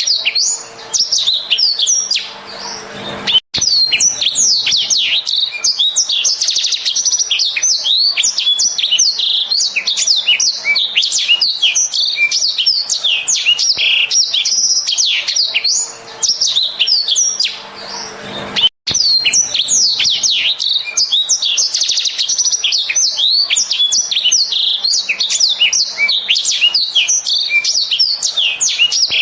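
Blackthroat (black-throated canary) singing a fast, continuous warbling song of rapid high chirps and trills, breaking off briefly twice: once near the start and once about halfway.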